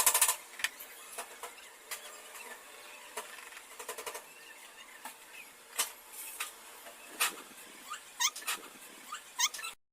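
Small birds calling: a rapid clicking trill at the start, scattered sharp calls, then a run of quick rising chirps near the end before the sound cuts off suddenly.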